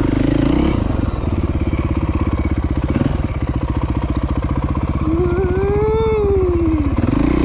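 Off-road engine running at low speed, its firing pulses plain, after being revved a little higher at first. Between about five and seven seconds in, a second tone rises and falls in pitch over it.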